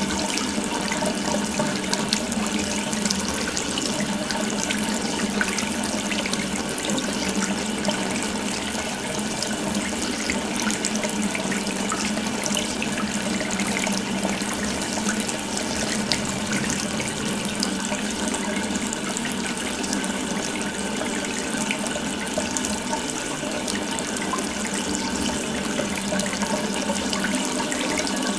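Water running continuously from an open tap in a steady, unbroken stream.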